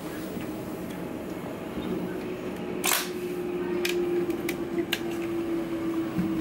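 Running noise inside a moving electric commuter train: a steady rumble with a humming tone that comes in about two seconds in, and a few sharp clicks and knocks, the loudest about three seconds in.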